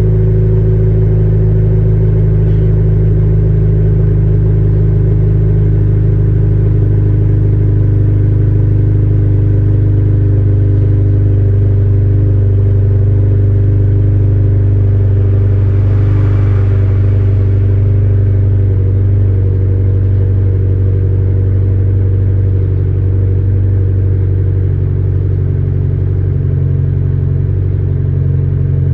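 Honda Integra DC5 Type R's K20A four-cylinder engine idling steadily after a cold start, through a Fujitsubo aftermarket exhaust. Its pitch and level dip slightly near the end.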